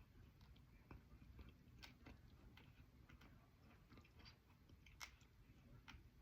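Faint, sparse crunching clicks of a mouthful of Naku pot clay and chalk being chewed, irregular and spaced out over several seconds.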